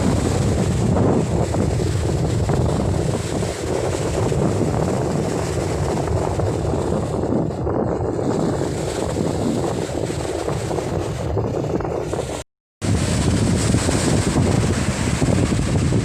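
Storm wind blasting the microphone over surf at a beach, a steady loud rush. About twelve and a half seconds in, the sound cuts out completely for a moment and then comes back.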